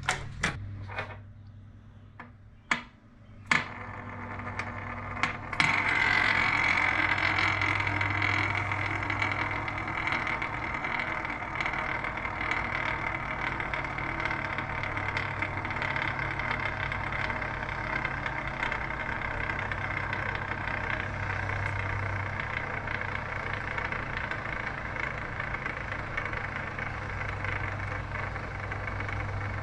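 Lathe-turned metal spinning top set spinning on a hard surface after a few light clicks of handling. It gives a steady whirring hiss that starts abruptly about five seconds in and keeps going without fading.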